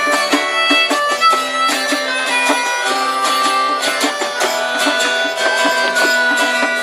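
Instrumental break of a live folk band between verses: strummed and plucked acoustic strings keep a steady beat while a melody line of held notes plays over them.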